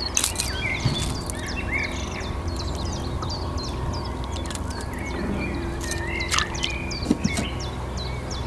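Small songbirds chirping repeatedly in quick, high, downward-sweeping notes over a steady low hum.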